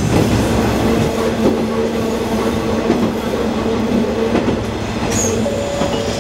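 Kisuki Line KiHa 120 diesel railcar running on the line, with a steady engine hum and a few clicks of the wheels over rail joints. A short, high wheel squeal comes about five seconds in.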